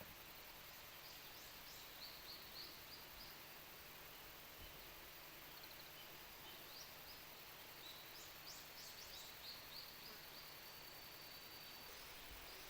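Faint natural outdoor ambience: a steady soft hiss with two runs of short, high chirps from small birds or insects, and a thin, steady high trill near the end.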